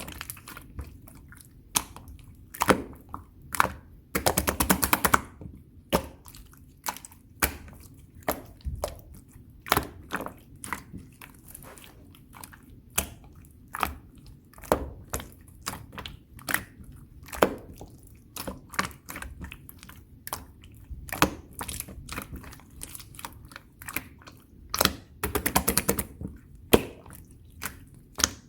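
Clear slime being squeezed and poked by hand, giving sticky clicks and air-bubble pops at an uneven pace, with two short runs of rapid crackling, about four seconds in and near the end.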